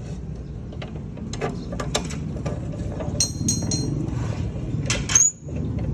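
Metal clicks and clinks, some of them ringing briefly, over a steady low rumble, typical of steel tubes and tools being handled.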